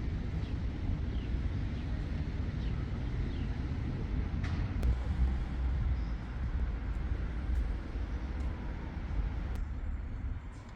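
Outdoor ambience: a steady low rumbling noise, with a few faint high chirps in the first few seconds and scattered light clicks.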